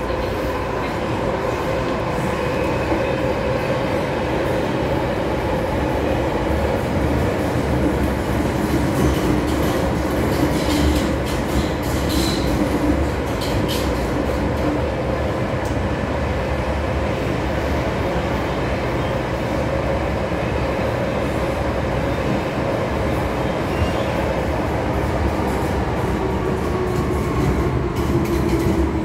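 MTR M-Train metro car running through a tunnel: steady rumble of wheels on track under the electric traction motors' whine, which glides slowly in pitch. A short high wheel squeal comes near the middle, and near the end the whine falls in pitch as the train slows.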